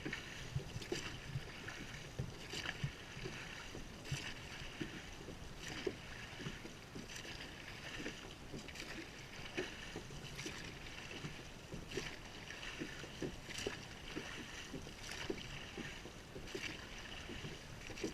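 Oars of a rowing boat working through the stroke. A short knock comes about every one and a half seconds from the oars in their oarlocks and catching the water, over a steady hiss of wind and water.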